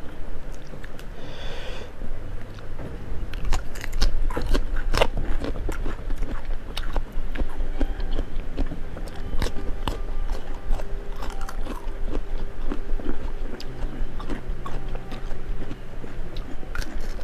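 Close-miked eating by hand: biting and chewing of raw vegetables and fried salted fish, with many sharp crunches.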